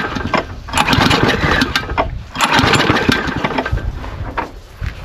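Lawnmower engine pull-started three times in a row, each pull sputtering for a moment and dying without catching. It is the sign of a carburetor fouled with water after winter storage.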